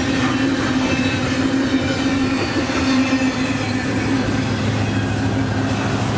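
A BNSF train passing close by: its wheels make a loud, steady rumble on the rails, with a continuous hum underneath.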